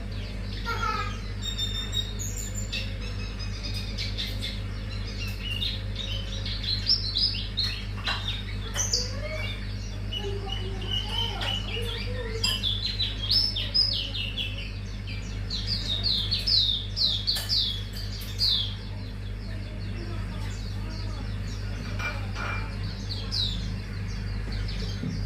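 Pleci auriventer (Hume's white-eye) singing a fast, varied twittering song of high chirps and trills in repeated clusters, over a steady low hum.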